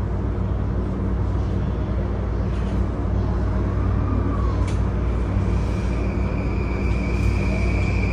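Running noise inside a JR E235-series Yamanote Line car: a steady low rumble. About five seconds in, a high steady whine comes in, the tone of the Mitsubishi full-SiC VVVF inverter.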